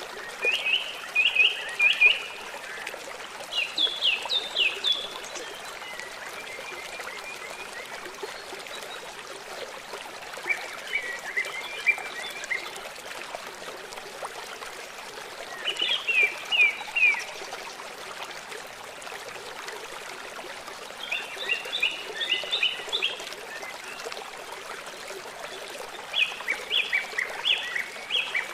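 A songbird sings a short phrase of quick, falling chirps about every five seconds, six phrases in all, over the steady rush of running water.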